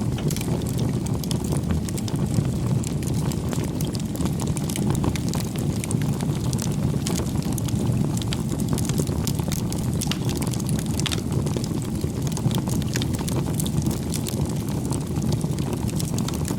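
Wood fire burning: a steady low rush of flames with frequent small crackles and pops.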